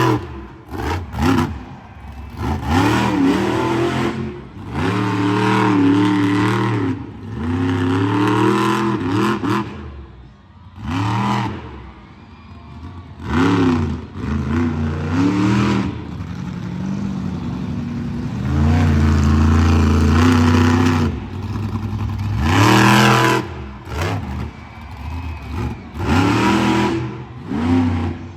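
Monster truck engine revving hard in repeated bursts, its pitch climbing and falling with each push of the throttle, with short lulls in between.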